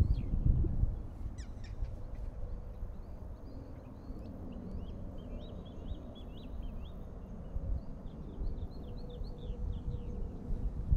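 Songbirds chirping in quick runs of short, high notes, over a low rumbling noise that is heaviest in the first second.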